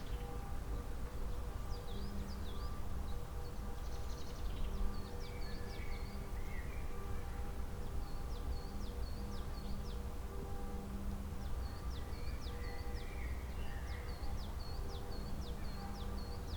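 A songbird chirping in quick runs of short, high, repeated notes, several phrases in a row with short pauses between them, over a steady low hum.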